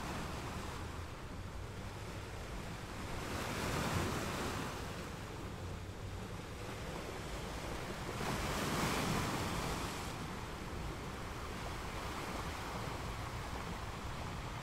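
Sea waves washing, rising in two broad surges about four and nine seconds in, with wind on the microphone.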